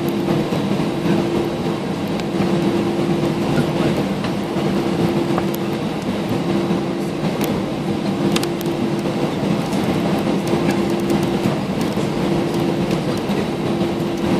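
Airbus A320 cabin noise during taxi: the jet engines at idle give a steady hum over a rumble, with scattered small clicks and rattles.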